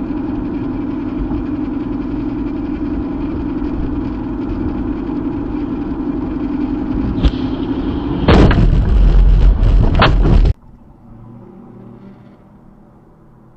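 A vehicle running steadily with a low hum, then a sudden, very loud crash-like impact noise about eight seconds in, lasting about two seconds before cutting off abruptly. The rest is much quieter road noise.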